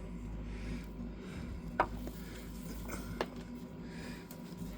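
A few light clicks and taps from tools and parts being handled under a car, over a faint steady hum.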